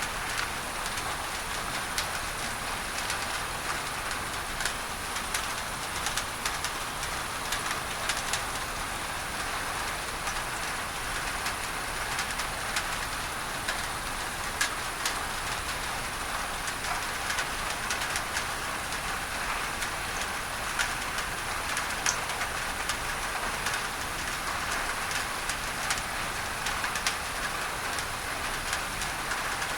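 Rain drumming on a tin roof: a steady hiss with many sharp drop-ticks scattered through it, blended with a steady pink-noise masking hiss.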